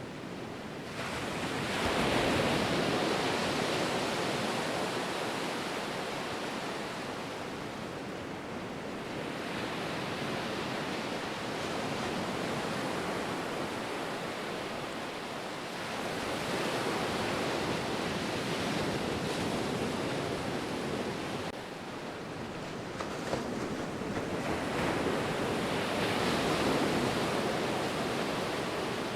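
Ocean waves breaking and washing on the shore, a steady rush of surf that swells and ebbs, with the strongest surges about two seconds in, around sixteen seconds in and near the end.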